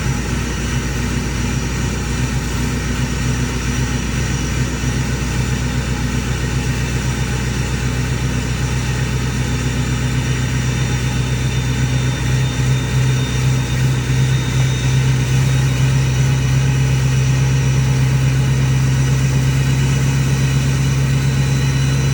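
Ford 6.4 Powerstroke twin-turbo V8 diesel idling steadily, getting louder about halfway through.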